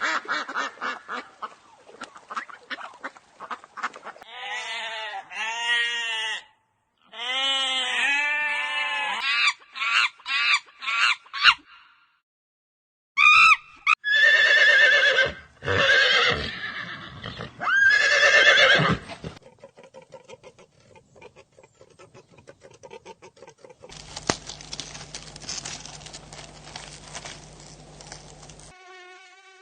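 A string of livestock calls, short clips cut one after another with brief gaps between them. Groups of loud, arching cries come near the start and middle, and a fainter, noisier stretch follows near the end.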